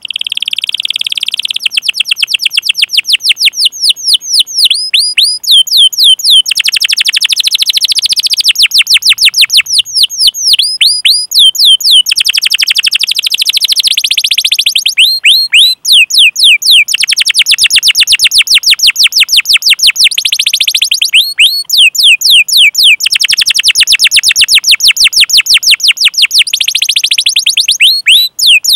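Domestic canary singing a long, fast rolling song: trains of very rapid repeated chirps, broken now and then by short phrases of slower down-sweeping 'cuit' notes.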